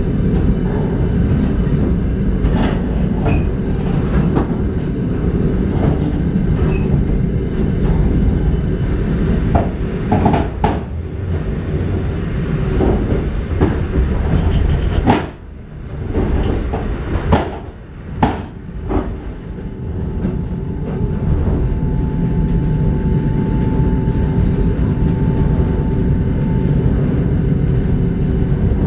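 Railway carriage running along the track, heard from inside: a steady low rumble of wheels and carriage with scattered knocks. The noise drops briefly about halfway through, and a thin steady whine sounds for several seconds in the second half.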